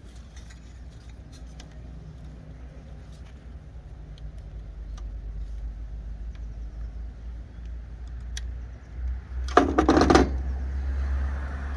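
A car passing on the road, its engine and tyre noise growing louder through most of the clip, with a short loud clatter about ten seconds in.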